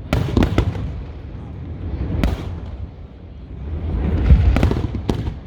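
Aerial fireworks exploding: sharp cracks and pops about the first half second, again a little after two seconds in and near the end, over deep rumbling booms that swell about four seconds in.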